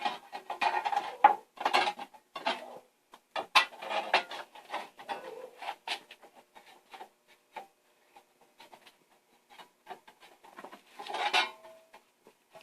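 Aluminum strip being worked by hand to square up its bends: scattered metallic clinks, taps and scrapes, busiest in the first half, with a short flurry near the end.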